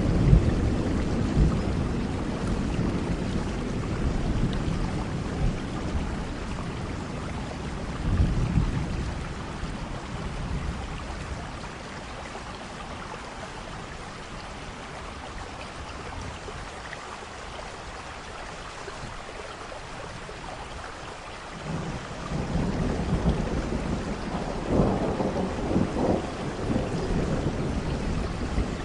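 Thunderstorm: steady rain with thunder rumbling. One roll fades out in the first ten seconds after a brief swell about eight seconds in, then a new roll of thunder builds a little past the midpoint.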